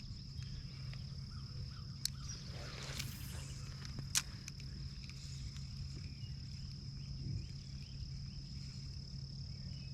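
Insects calling in one steady, high-pitched drone over a low steady rumble, with two sharp clicks about two and four seconds in.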